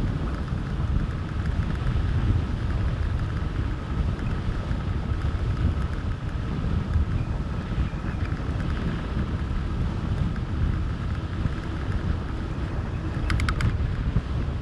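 Wind rushing over the microphone of a moving fat bike, a steady low rumble. Above it runs a faint steady hum, and a short cluster of clicks comes near the end.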